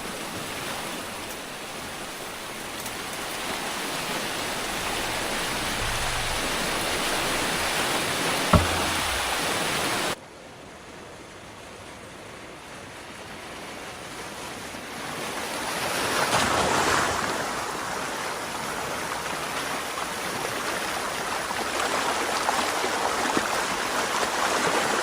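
Water rushing through a drainage canal as a beaver dam is breached. A single sharp knock comes about eight and a half seconds in; about ten seconds in the rush drops suddenly, then swells back up.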